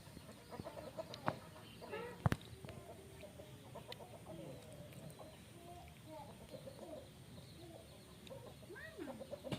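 Chickens clucking: many short, overlapping low calls, with a couple of sharp clicks about one and two seconds in.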